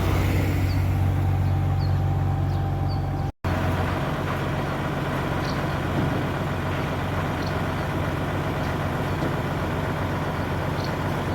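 Diesel engine of a concrete pump running steadily with a deep drone. It breaks off for an instant about a third of the way in, then carries on with a weaker low hum.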